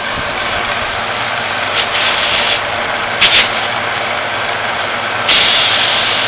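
Small Italian-made commercial refrigeration condensing unit running, its compressor going despite water in it, with a steady rushing noise. Louder bursts of hiss come about two seconds in, briefly just after three seconds, and again from about five seconds in.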